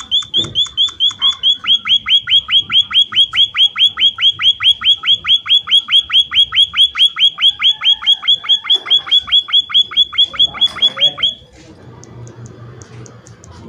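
Emprit (munia) calling vigorously in a fast, even series of sharp falling notes, about five a second, that stops abruptly about eleven seconds in.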